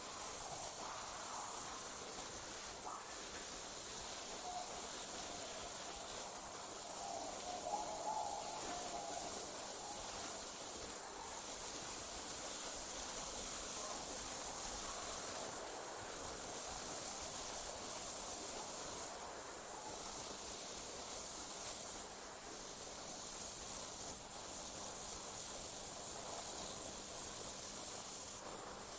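Night insects, crickets, trilling in one continuous high-pitched chorus that breaks off for a moment every few seconds.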